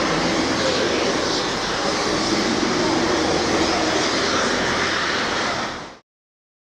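Class 47 diesel locomotive's Sulzer engine running with a loud, steady drone. It fades quickly and cuts off about six seconds in.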